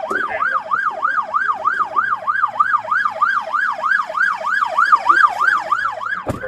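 Police car siren in yelp mode: a fast rising-and-falling wail repeating about four times a second, with a low steady hum beneath it and a sharp click near the end.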